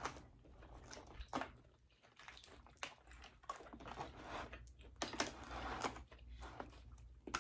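Close-miked eating of boiled seafood: faint wet chewing and mouth sounds with scattered sharp clicks, such as mussel shells being handled.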